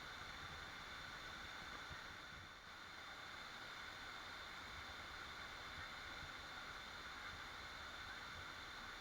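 Waterfall rushing in a steady, even roar of falling water, with a faint steady high tone above it.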